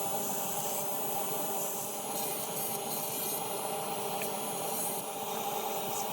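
Small power tool running steadily with an even motor hum while grinding into antler, a gritty scraping hiss coming and going on top as the bit or abrasive bites.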